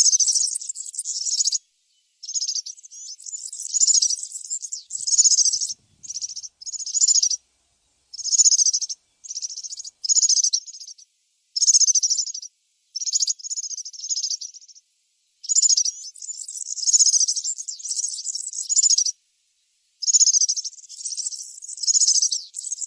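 European serin singing: a high, fast jingling song in repeated bursts of one to two seconds with short breaks between.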